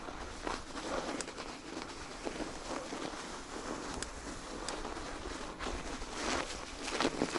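Footsteps of a person walking on snow, an irregular run of short steps.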